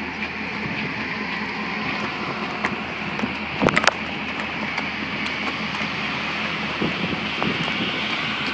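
Steady drone and hiss of a car ferry's engines and ventilation, heard on board. A short cluster of sharp knocks near the middle is the loudest moment.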